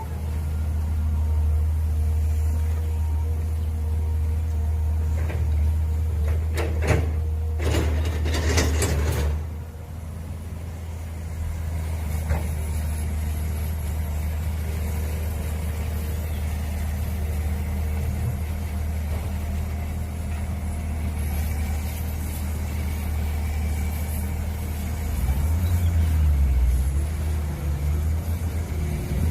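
Mini excavator engine running steadily while it digs, with a cluster of knocks and scraping about seven to nine seconds in. The engine note swells and varies near the end as it works harder.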